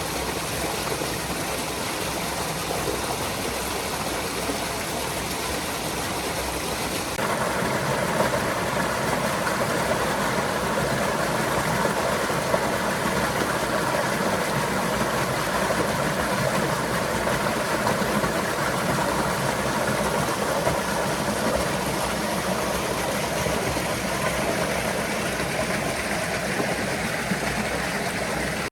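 Stream water rushing steadily, growing louder about seven seconds in.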